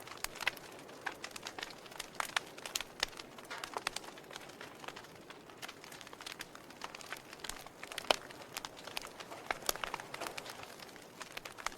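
Wood fire burning in a fireplace: irregular crackles and sharp pops over a soft hiss, with one louder pop about eight seconds in.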